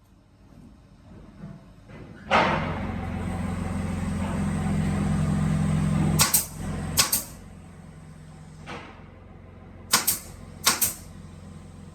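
A woodworking drilling machine runs for about four seconds, its motor hum under a loud rushing cutting noise that starts suddenly and stops. Then come several sharp wooden knocks as the workpieces are handled.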